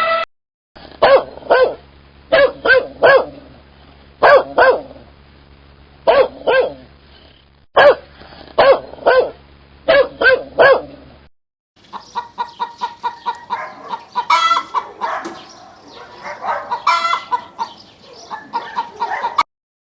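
Chickens clucking in two spliced clips. First come short calls in twos and threes, repeated every second or so; after a sudden cut about eleven seconds in, a faster, denser run of clucks follows, stopping abruptly near the end.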